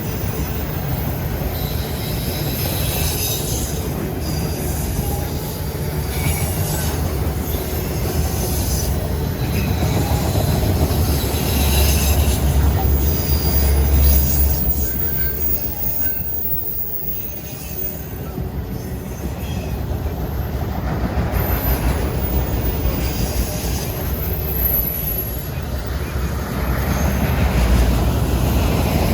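A long CSX freight train's cars rolling past, steel wheels squealing on the rails over a steady low rumble, with some clatter at the rail joints.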